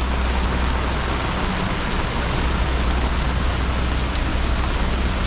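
Steady heavy rain, an even, unbroken hiss with a low rumble underneath.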